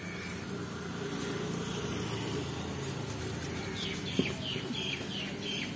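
A bird calling in a quick series of about six short falling chirps in the last two seconds, over a steady low hum of background noise, with a single sharp knock about four seconds in.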